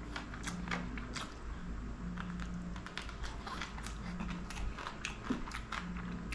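Close-miked chewing and wet mouth sounds of a man eating chicken drumstick meat by hand: many quick smacking clicks, with a few short low hums between them.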